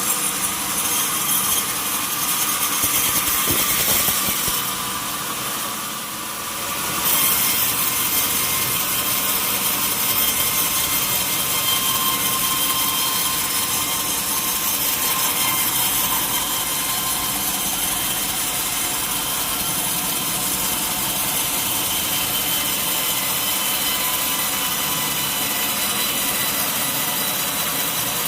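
A sawmill saw running steadily through a mahogany log. The sound briefly drops about five seconds in, then resumes at the same level.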